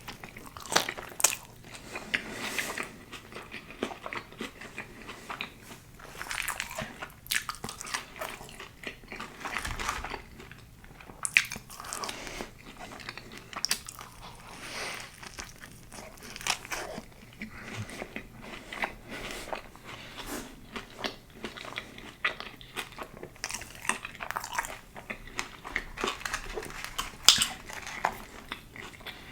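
A person biting and chewing crunchy food close to the microphone: irregular sharp crunches and crackles over continuous wet chewing and mouth sounds.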